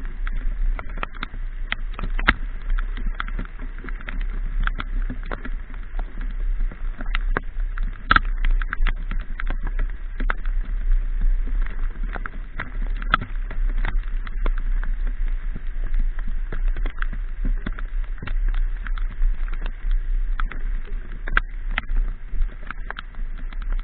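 Raindrops tapping irregularly on a camera while a motorcycle is ridden in the rain, over a steady low rumble of wind and road.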